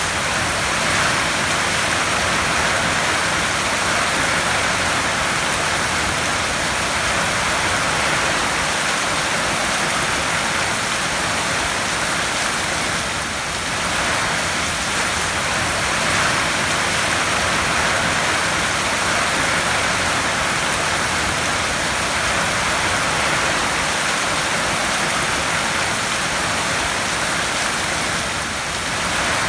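Heavy rain falling on a tin roof: a dense, steady hiss that eases slightly twice, about thirteen seconds in and near the end.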